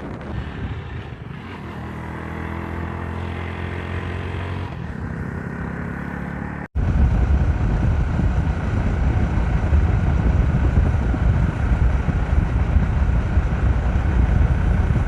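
Motorcycle engine running steadily while the bike rides along. About seven seconds in, after a brief dropout, it turns into a louder, rougher low rumble.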